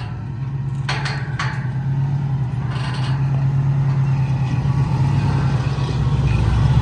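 Motor vehicle engine running steadily, its low hum growing gradually louder, with a couple of brief clicks about a second in.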